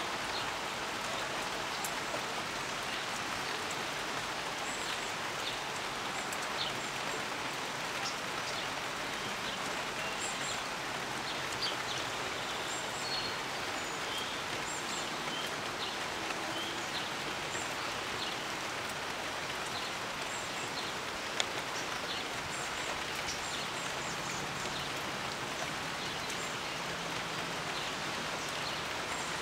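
Steady rain falling on leaves and mulch, with a few sharp drips and scattered faint, short high chirps of small birds.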